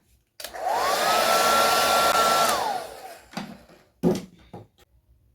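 Handheld hair dryer switched on: its motor whine rises quickly to a steady pitch under a loud rush of air, runs for about two seconds, then the dryer is switched off and winds down. A couple of handling knocks follow near the end.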